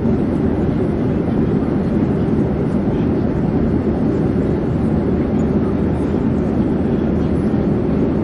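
Airplane noise: a steady low rumble of engines and rushing air that holds even without rising or falling.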